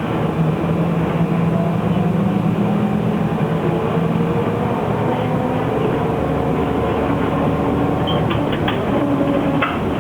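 Inside a moving SK5105 trolleybus: electric traction drive humming and whining under road and body noise. The tones shift in pitch partway through, and a few rattles come near the end.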